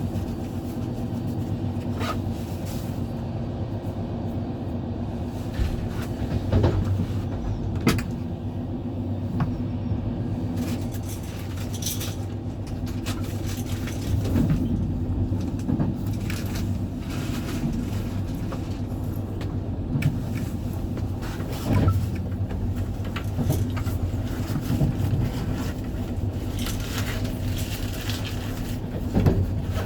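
Passenger train running along the line, heard from inside a carriage: a steady low rumble with irregular clicks and knocks from the wheels and the rattling carriage.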